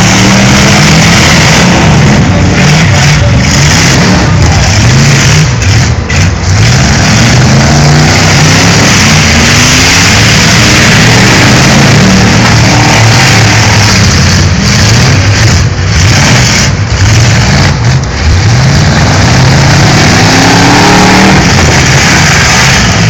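Several demolition derby cars' engines revving together, their pitches rising and falling over and across one another, very loud with a dense haze of noise behind them.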